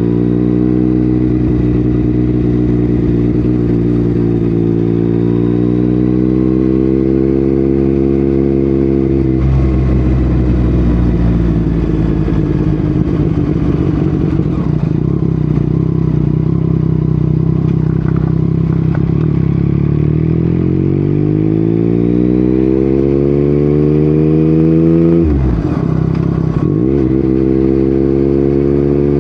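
Yamaha MT-09 inline-three engine through an Akrapovic exhaust, ridden on the road. The engine note climbs slowly and drops off about nine seconds in. Later it climbs again, then dips sharply twice near the end.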